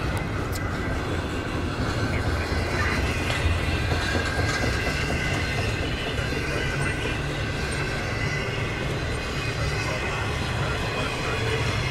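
A CSX intermodal freight train's double-stack well cars and trailer flatcars roll past slowly on a slow order, a steady noise of steel wheels on the rails. A faint high wheel squeal comes and goes over it.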